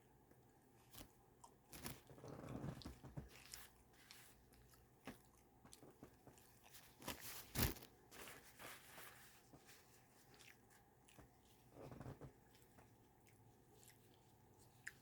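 Faint chewing and biting of a loaded chicken Bird Dawg sandwich in a bun, with scattered small crunches; the loudest crunch comes about halfway through.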